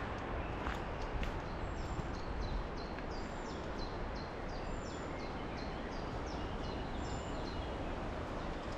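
A small songbird singing a quick series of short, high repeated notes for about four seconds, starting a few seconds in, over a steady outdoor rush. A few sharp clicks fall in the first seconds.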